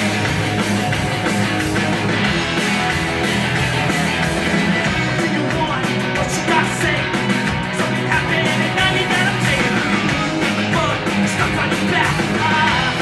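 Rock band playing live, with electric guitar, in a punk-rock style.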